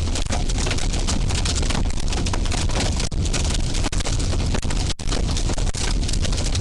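Heavy rain pelting a car's roof and windshield, heard from inside, a dense unbroken patter over the low rumble of the moving vehicle.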